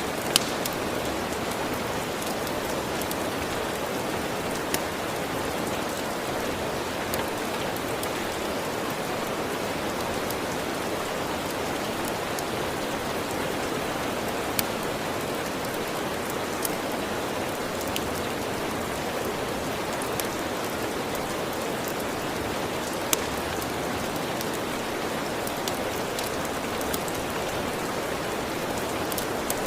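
Steady rain, an even hiss, with a dozen or so sharp pops from a crackling wood fire scattered through it.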